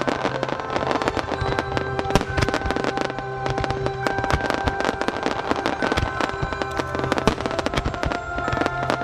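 Dense, continuous crackling and bangs of an aerial fireworks show, over the song played for the display from loudspeakers.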